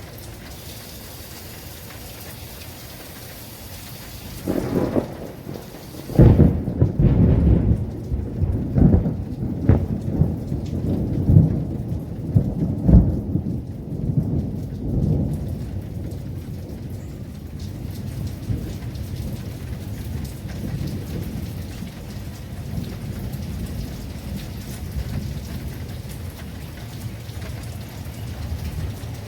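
Steady heavy rain with a thunderclap. About five seconds in, thunder starts with a crack, then rumbles loudly with repeated sharp cracks for about ten seconds, and dies away to a low rolling rumble under the rain.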